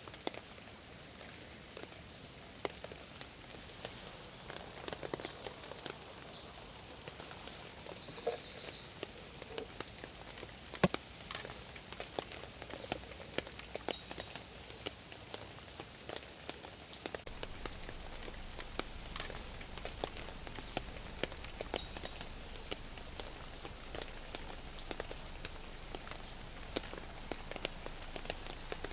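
Steady rain with many separate sharp drop hits close by, one louder hit about eleven seconds in. A few short high chirps sound in the first half, and a low rumble joins about two-thirds of the way through.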